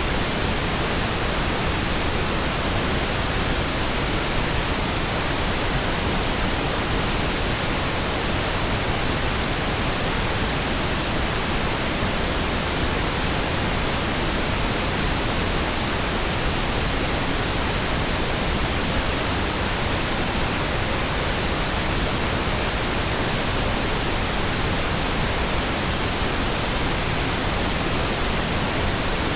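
Pink noise: a smooth, steady hiss spread evenly across the frequencies, unchanging throughout.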